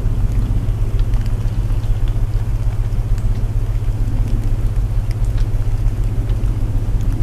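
Layered sleep soundtrack: steady low binaural tones humming underneath, an even hiss of rain, and scattered sharp crackles of burning wood in a fireplace.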